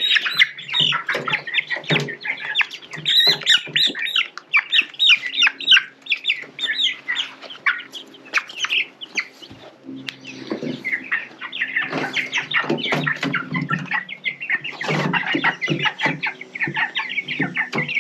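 A crowd of three-week-old Cornish Cross broiler chicks peeping constantly, short high chirps one after another, with some lower clucking calls mixed in.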